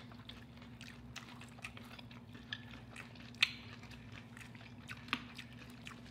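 Close-miked chewing and biting of crunchy battered fried chicken wings: scattered small crackles and clicks, with a few louder crunches about halfway through and near the end, over a faint steady hum.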